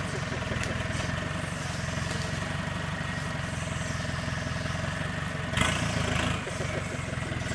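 Off-road 4x4's engine running steadily at low revs as the vehicle crawls over rough ground, with a brief louder surge about three-quarters of the way through.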